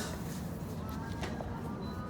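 Café background noise: a steady low hum with faint, indistinct chatter from other customers, and a couple of sharp clicks, one at the start and one just past the middle.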